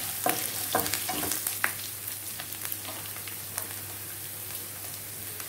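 Whole spices, sliced garlic and ginger sizzling in hot oil in a non-stick kadai. A wooden spatula stirs them, knocking against the pan about four times in the first second and a half, then the sizzle goes on steadily.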